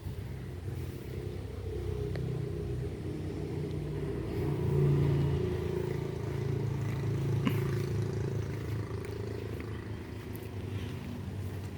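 Tractor diesel engine running, a steady low hum that grows louder about four seconds in and then eases back.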